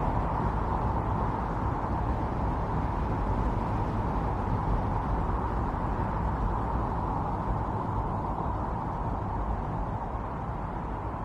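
Strong winter storm wind blowing steadily, a dense rushing noise with a low rumble beneath.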